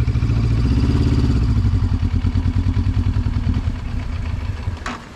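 Benelli 702 motorcycle's parallel-twin engine running at low revs with a pulsing beat, slowing and dying away, and cutting out near the end with a short click.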